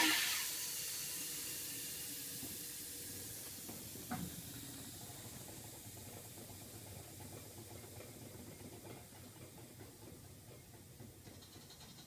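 Compressed air at about 90 psi hissing into the air-over-hydraulic lift table. It starts with a sudden loud burst and fades slowly, with a single knock about four seconds in.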